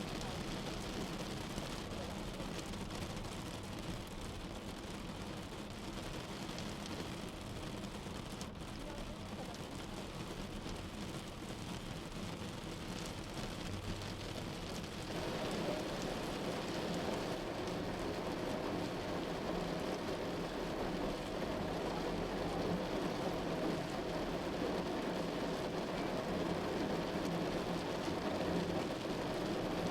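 Steady rain falling on a moving car, mixed with road and engine noise. It gets louder and fuller about halfway through.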